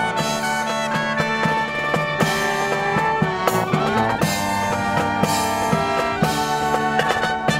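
Brass band playing, horns carrying the tune over a drum kit's steady beat.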